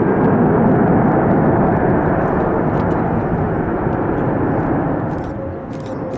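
Jet airliner engines roaring as the plane passes, loudest about a second in and easing slightly afterwards, with a faint steady whine entering near the end.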